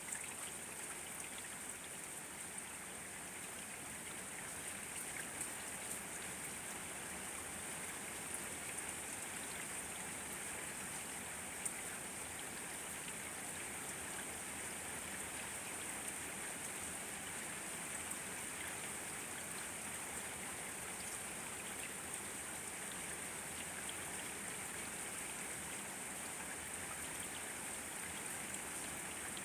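Steady rain falling: an even hiss with a few louder individual drop taps now and then.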